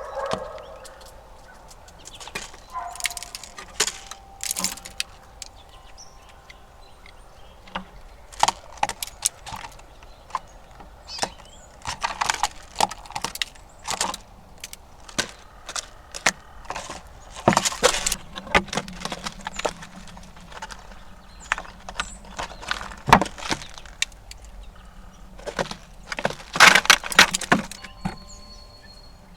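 Squirrels feeding at a platform feeder close to the microphone: irregular clusters of sharp clicks, cracks and scrapes from gnawing food and scrabbling on the feeder.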